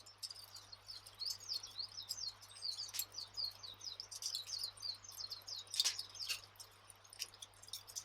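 Campfire crackling with scattered sharp pops, the loudest about six seconds in, under a steady chatter of small birds: quick high chirps that fall in pitch, several a second.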